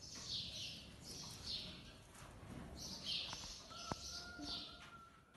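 Small birds chirping: a string of short, high, falling chirps in small clusters, with a single sharp click about four seconds in.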